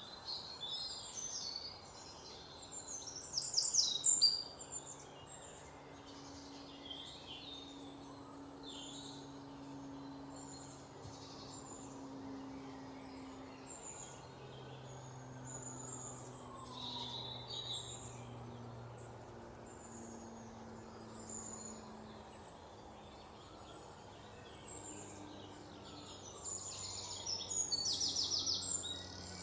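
Several songbirds chirping and trilling, with a loud burst of song about four seconds in and a fast trill near the end. A faint low drone runs underneath.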